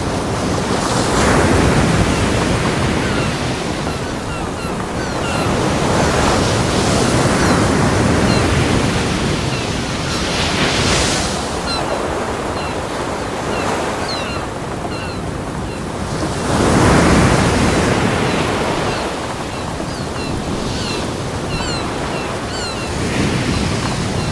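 Ocean waves breaking on a beach: a continuous wash of surf that swells and recedes every few seconds, the loudest breaks about a second in and around seventeen seconds in.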